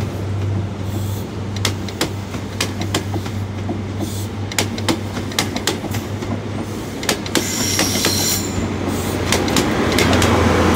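A Class 43 HST 'Castle' set pulling out: a steady diesel power-car hum under a run of clicks as the wheels cross rail joints, with a brief high wheel squeal about eight seconds in.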